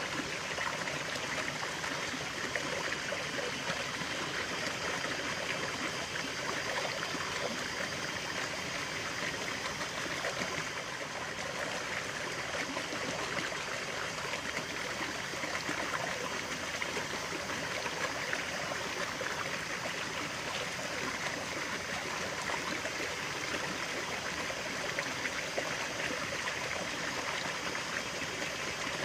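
Running water of a stream, a steady babbling and trickling with no let-up.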